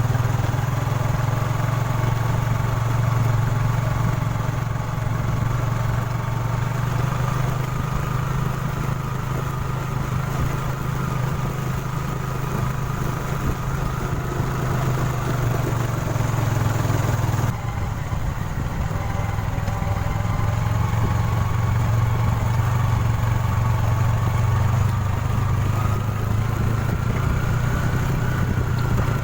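Motorcycle engine running steadily at low revs, its pitch wavering slightly, with a sudden break about two-thirds of the way in where the sound cuts and resumes.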